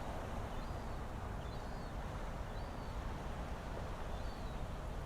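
A small bird giving a short, high chirp about once a second over a steady low outdoor rumble.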